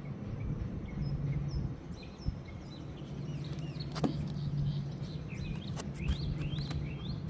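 Small birds chirping in short, scattered notes that grow busier near the end, over a steady low hum.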